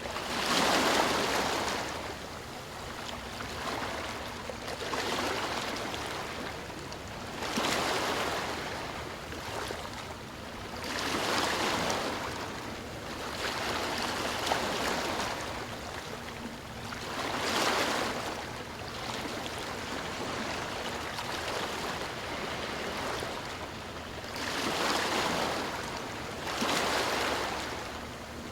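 Sea waves breaking and washing in, each one a swell of rushing water that rises and falls away. About eight come every few seconds, and the first is the loudest.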